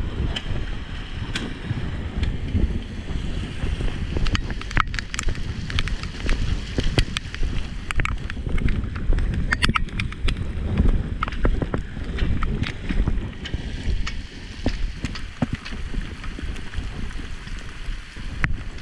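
Heavy rain falling on a flooded yard, with wind rumbling on the microphone and many sharp ticks of drops striking close by.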